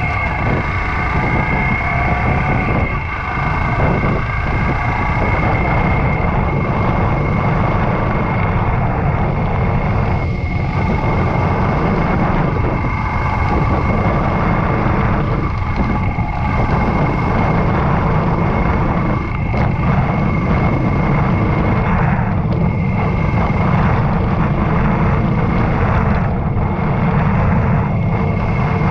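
Yamaha YBR125 motorcycle's single-cylinder four-stroke engine running steadily as the bike is ridden, under a constant rush of wind and road noise.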